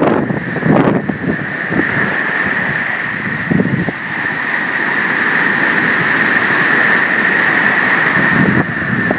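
Strong wind gusting against the phone's microphone, over a steady rushing hiss.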